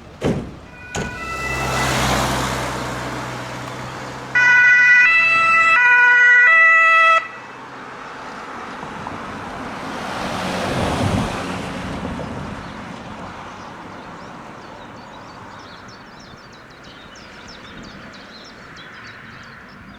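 German two-tone emergency-vehicle horn (Martinshorn) alternating between a high and a low tone, faint at first, then loud for about three seconds before cutting off abruptly. Two sharp knocks come in the first second, and a vehicle drives past near the middle.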